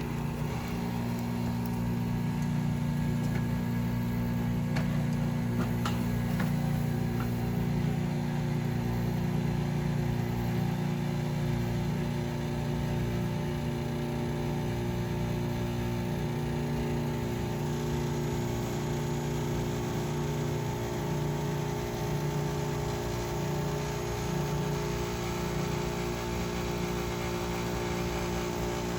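1983 Whirlpool heat pump running with a steady low hum, during its defrost cycle.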